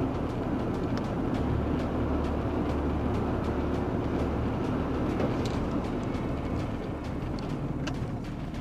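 Steady engine and road noise of a moving vehicle: a low rumble with a faint hum.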